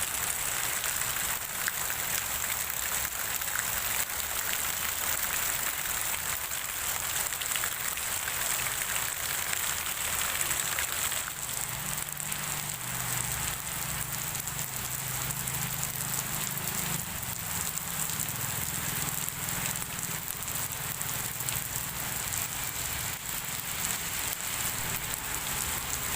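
Rain falling steadily. A low hum is heard for several seconds about halfway through.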